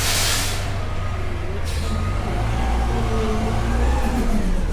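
Front-load garbage truck's diesel engine running, with a short sharp air hiss at the start and a briefer one about a second and a half later. The engine then revs, with a whine that rises and falls as it drives the lift hydraulics.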